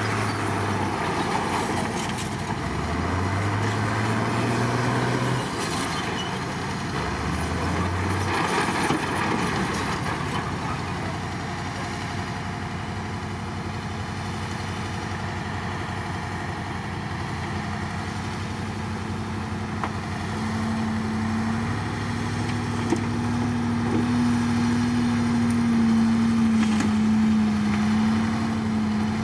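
Komatsu D53 crawler bulldozer's diesel engine working, revving up twice in quick rises early on, then running steadily before climbing to a higher, louder pitch under load near the end.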